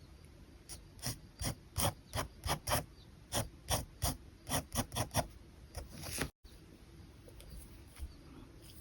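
Pen nib scratching across paper in a run of quick short strokes, about three a second, as in hatching or sketching lines; the strokes stop abruptly a little after six seconds in, then a few fainter ones follow.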